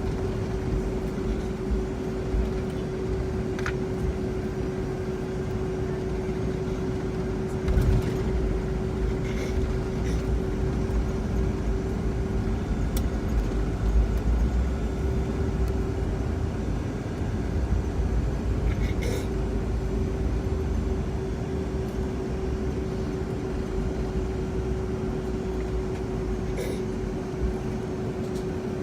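Boeing 757-200 jet engines running steadily as heard inside the cabin: a low rumble with a steady hum, and a few brief knocks and rattles.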